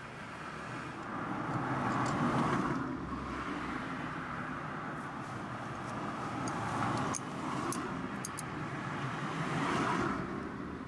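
Passing road traffic: cars going by, their noise swelling and fading several times. A few light clicks come in the middle.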